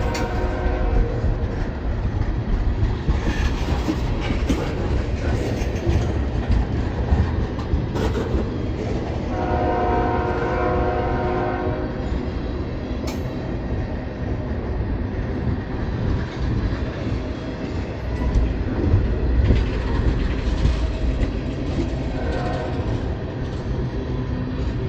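Norfolk Southern freight train rolling past with a steady low rumble and the clatter of cars on the rails. The locomotive's multi-note air horn sounds three times: the end of a blast at the very start, one longer blast of about two and a half seconds roughly ten seconds in, and a short, fainter blast near the end.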